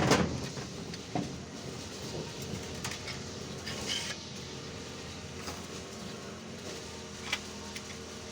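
Knocks and clatter: a heavy bang right at the start that dies away over about a second, then scattered light knocks and clicks.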